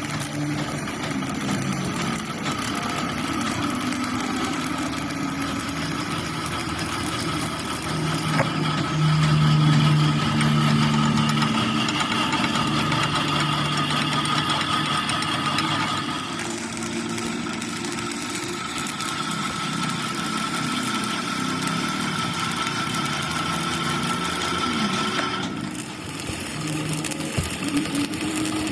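Metal lathe running steadily, with a motor drone that shifts in pitch and loudness a few times and is loudest about nine seconds in.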